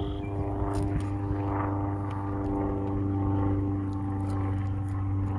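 A steady motor or engine drone, an even low hum with a constant pitch that neither rises nor falls, with a few faint ticks and rustles over it.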